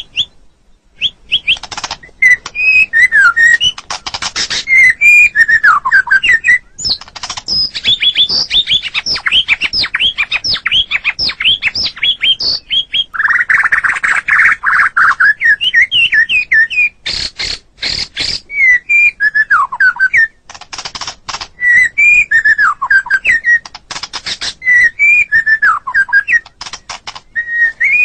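White-rumped shama (murai batu) singing a long, varied song: loud whistled phrases that slide down in pitch, a fast run of short repeated notes in the middle, and sharp clicking notes a little past halfway.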